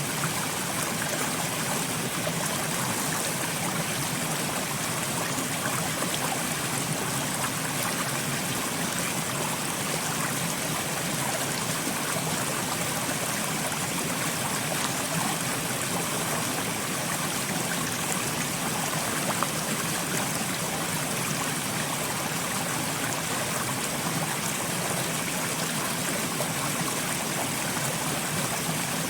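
Soft rain falling steadily: an even, unbroken hiss of water with no single drops standing out.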